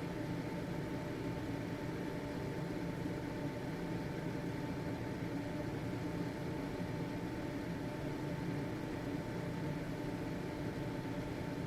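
Household ventilation fan running steadily: an even motor hum with a faint steady whine over soft airflow noise.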